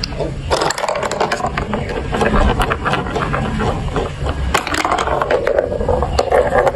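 Hard plastic marble-run pieces clicking and clattering in quick, irregular succession, with a steadier rolling rattle building near the end.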